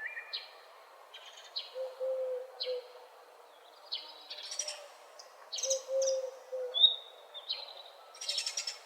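Several songbirds singing in a morning chorus: quick high chirps and short trilled phrases, with a louder burst of song near the end. A low soft call repeats a few times underneath.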